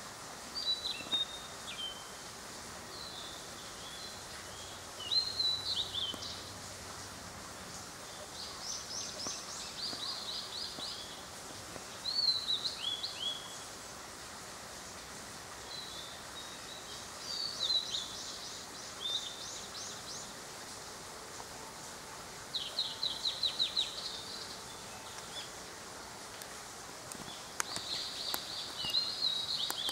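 Small songbirds singing short, varied phrases every few seconds, some of them quick trills of rapid repeated notes, over a steady background hiss.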